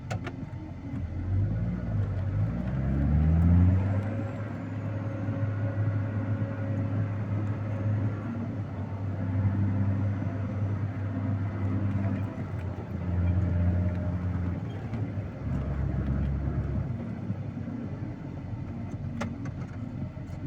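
Vehicle engine running, its pitch climbing over the first few seconds as it revs up, then holding a low steady drone that steps down and back up several times.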